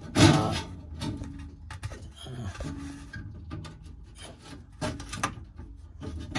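Irregular rubbing and scraping as parts inside a gas water heater's burner compartment are handled, with a loud scrape just after the start and another cluster of scrapes about five seconds in.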